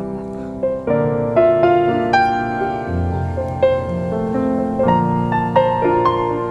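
Background piano music, slow and gentle, notes and chords struck one after another.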